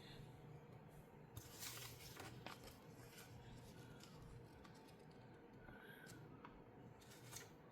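Near silence, with faint rustling and light clicks of plastic Lego pieces being handled, most of it a second or two in.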